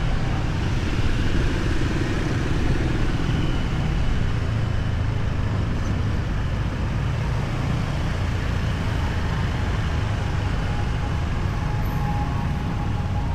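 Steady noise of a motorbike ride through heavy city traffic, heard from the pillion seat: engines and road noise running on without a break, heaviest at the low end.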